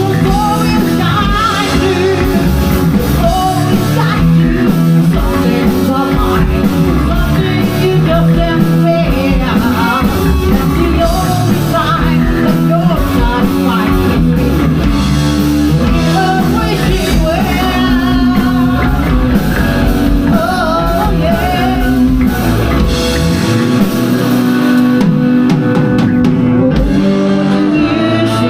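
Rock band playing live: electric guitar, drum kit and singing. About 24 seconds in, the drums and bass drop out and the guitar and voice carry on.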